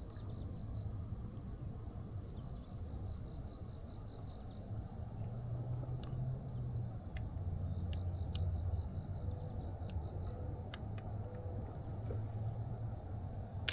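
Steady, high-pitched chorus of crickets or other night insects, with a low rumble underneath and a few faint clicks in the middle.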